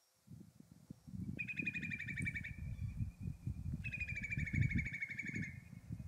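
A songbird sings two trilled phrases, each a second or more long and falling slightly in pitch. A loud, ragged low rumble runs beneath them and is louder than the bird.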